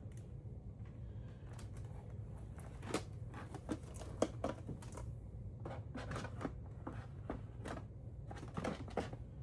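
Irregular light clicks, taps and crinkles of small items being handled and set down on a work surface, over a low steady hum. The taps grow busier about three seconds in.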